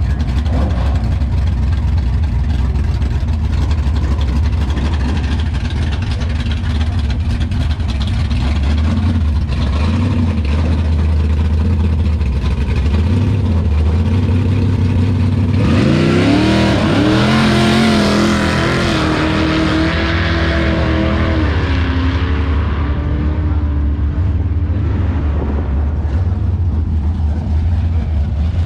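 Drag cars idling with a steady low rumble. About halfway through, one car launches down the runway: its engine note climbs sharply in pitch, holds, then fades away over several seconds.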